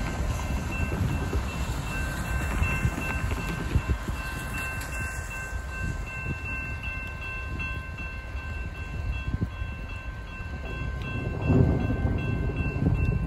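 Freight train rumbling past a grade crossing and moving off, with the crossing's electronic warning bell ringing in rapid even pulses over it. The rumble swells louder for a moment near the end.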